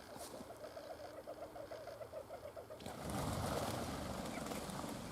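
A bird calling in a fast, even chatter of short notes for about three seconds, then a louder rushing, rustling noise takes over.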